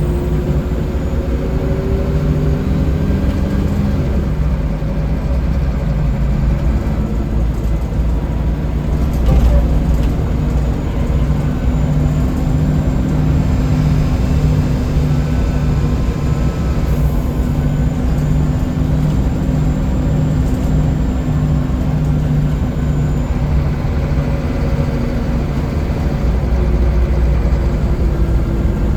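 Scania L94UB bus's diesel engine running under way with steady road noise, its pitch rising gently over the first few seconds as the bus speeds up, then holding steady.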